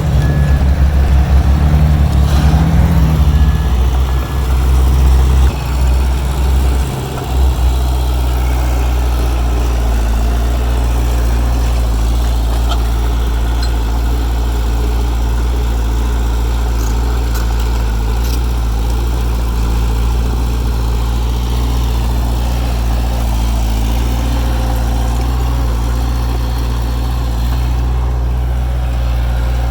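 Heavy diesel engine of earthmoving equipment running. It is uneven for the first several seconds, then settles into a steady idle.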